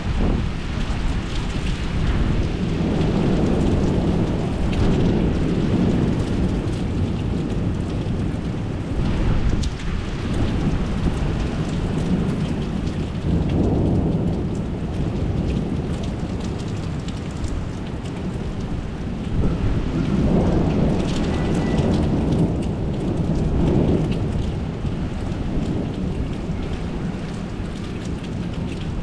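Thunderstorm: steady heavy rain with repeated rolls of thunder, rumbling that swells and fades every few seconds.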